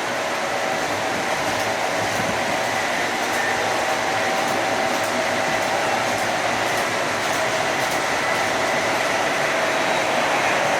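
O-gauge model diesel locomotives running around the layout pulling passenger cars: a steady whirr of motors and wheels on the track, with a faint whine and scattered light ticks.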